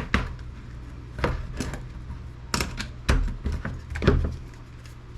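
Metal computer scrap parts clinking and knocking as they are handled and set down, about seven irregular knocks, the loudest near the end, over a steady low hum.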